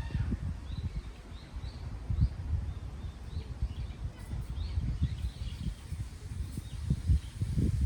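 Wind buffeting the microphone in irregular gusts, with small birds chirping faintly and repeatedly in short high notes.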